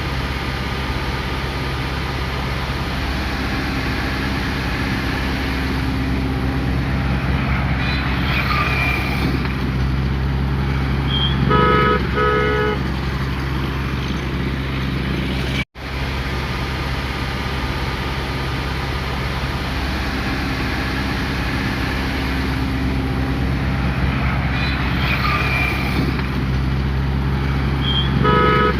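Hyundai Creta 1.5-litre diesel engine running steadily through a DPF regeneration, a low even drone. Two quick car-horn toots sound a little before halfway and again near the end, and the sound drops out for an instant about halfway.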